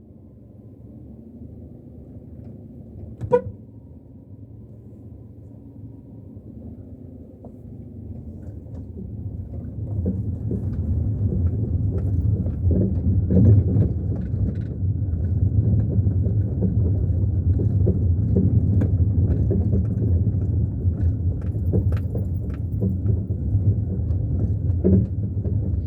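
Car driving over a rough country road: low engine and tyre rumble that builds up from about eight seconds in and then stays loud, with knocks and rattles from the bumps. A short beep a few seconds in.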